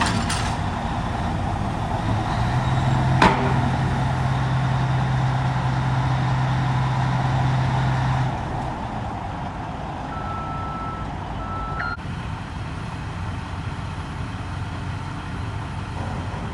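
Heavy machinery engine running steadily, with a sharp clank about three seconds in and a low steady hum that stops about eight seconds in. Two short beeps follow about ten and eleven seconds in.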